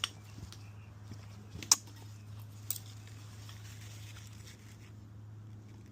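A few sharp metal clicks as piston rings are turned in their grooves on the piston to set the ring gaps. The loudest click comes just under two seconds in, over a steady low hum.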